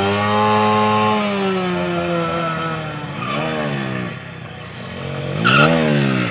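Motorcycle engine revving during stunt riding: held at high revs, easing slowly down, then two quick throttle blips, the second with a short high-pitched sound over it.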